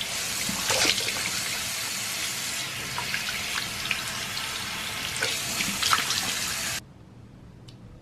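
Water running from a tap into a sink, with a few short splashes or knocks, shut off abruptly near the end.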